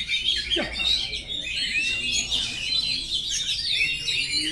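Oriental magpie-robin (kacer) singing without a break: a rapid, varied stream of chirps and whistles.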